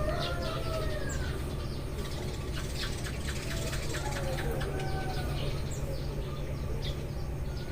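Eurasian tree sparrows chirping: many short, rapid chirps overlapping continuously, over a steady low background rumble.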